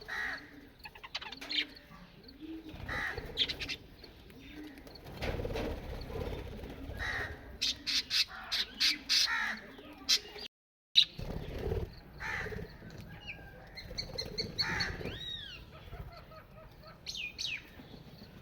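Parrots calling: a run of harsh squawks and shorter chirping calls, some sweeping up and down in pitch, with a brief silent break a little past halfway.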